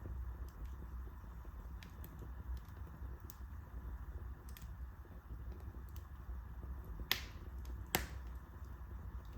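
Wood fire crackling in a fireplace: a steady low rumble of burning with scattered small pops, and two louder snaps about seven and eight seconds in.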